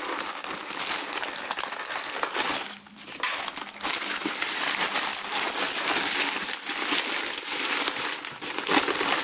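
Parcel packaging being handled and pulled open by hand: continuous crinkling and crackling, with a short lull about three seconds in.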